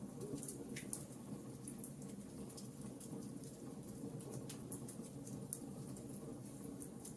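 Campfire burning with a steady low rumble and frequent small, sharp crackles and pops at irregular intervals.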